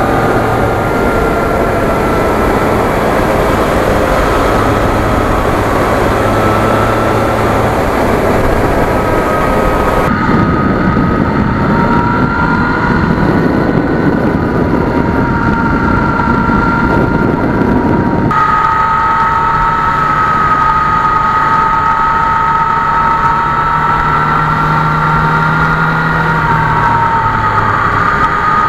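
2020 Yamaha MT-09's 847 cc inline three-cylinder engine running steadily while the bike is ridden, with wind and road noise. The sound changes abruptly twice, about 10 and 18 seconds in.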